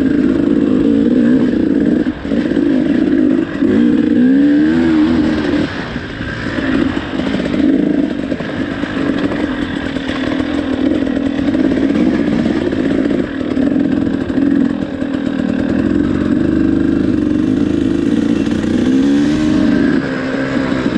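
KTM 300 two-stroke dirt bike engine running under changing throttle while being ridden. The pitch swings up and down in quick revs about four seconds in and again near the end.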